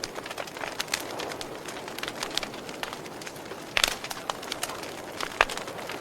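Wood fire crackling: a steady hiss with frequent sharp pops and snaps, the loudest about four seconds in and again near the end.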